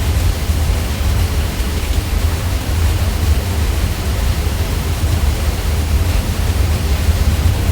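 Ceiling fan running steadily: a constant low hum under an even hiss of moving air, with no change in speed.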